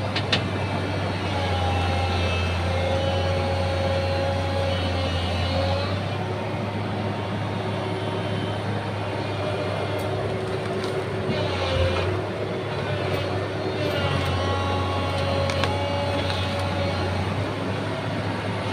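Hydraulic excavator working logs: the diesel engine runs steadily under load, and a whine from the hydraulics rises and falls in stretches of a few seconds. A few knocks are heard.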